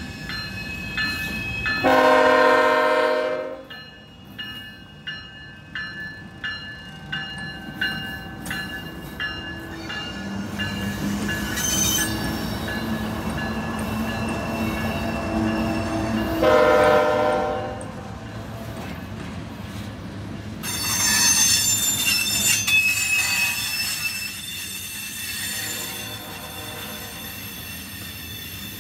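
CSX freight locomotive's air horn sounding two long blasts, about two seconds in and again around sixteen seconds, over the steady ringing of a grade-crossing bell. The locomotive's diesel engine drones past, and later the freight cars roll by with high wheel squeal.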